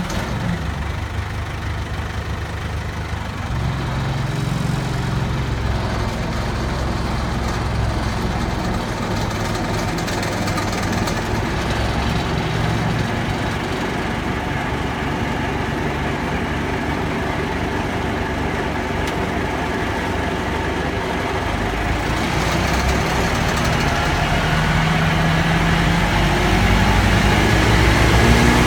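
Morbark Blizzard 12 drum chipper's 115 hp Perkins turbo diesel engine running steadily at idle, growing somewhat louder in the second half and starting to rev up near the end.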